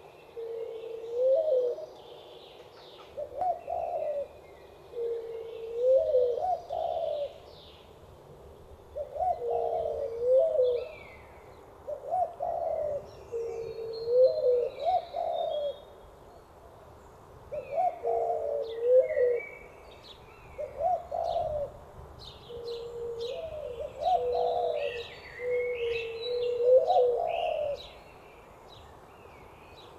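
Doves cooing: a low call repeated about every two seconds, each phrase rising at its end. Small birds chirp higher above them, more busily near the end.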